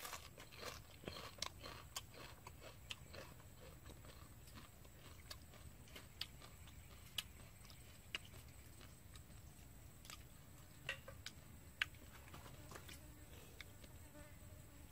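Faint, scattered wet clicks and smacks of chewing while eating a clay-cooked egg by hand.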